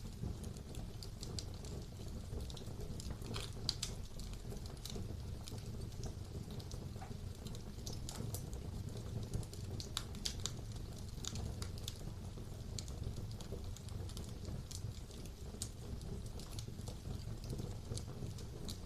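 Fire burning in a fireplace: a steady low rumble of flames with frequent irregular crackles and sharp pops.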